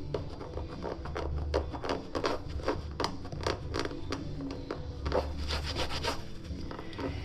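Bicycle tyre being worked by hand on its rim: rubber rubbing and scraping in many short, irregular strokes.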